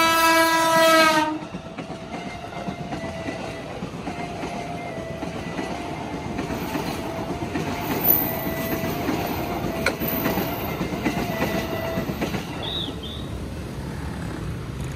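KRL Commuterline electric commuter train sounding its horn in a loud blast that stops about a second in, then running past at close range with its wheels rumbling and clacking over the rails.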